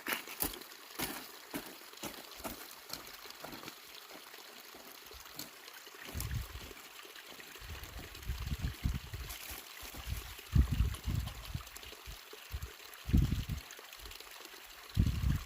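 Water running and trickling steadily, with scattered sharp clicks and several low thumps, the loudest about ten and a half seconds in.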